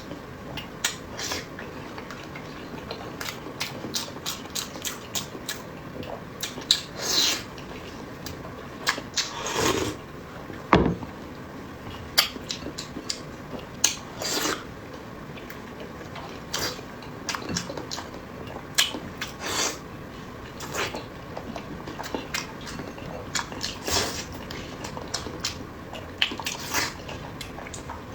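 Close-up eating sounds: chewing and mouth noises with irregular sharp clicks, typical of utensils tapping a bowl or plate, and a few longer half-second smears.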